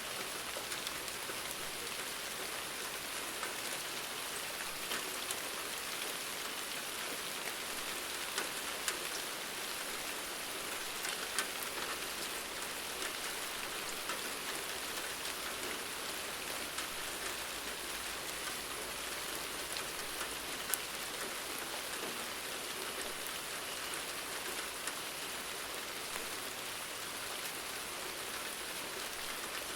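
Steady rain falling, a constant patter with scattered sharper drop ticks now and then.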